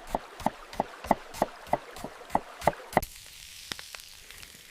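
Knife chopping on a cutting board: an even run of sharp strokes, about three a second, that stops about three seconds in.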